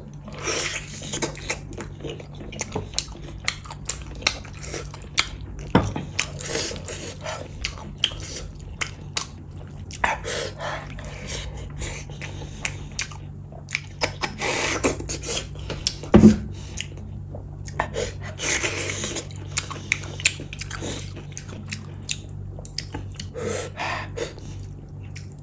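A person chewing mouthfuls of rice, meat and gravy eaten by hand, with wet smacking and many short mouth clicks, a couple of them sharper and louder. A steady low hum sits underneath.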